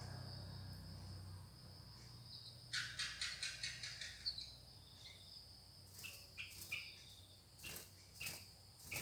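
Sooty-headed bulbul calling: a quick run of short chattering notes about three seconds in, then a few scattered short notes later. A steady high cricket sound runs underneath.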